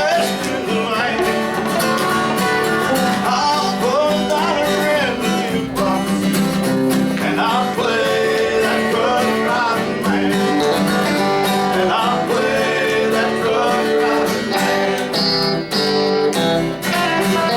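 A live country band playing with a prominent guitar lead whose notes bend up and down over a steady beat.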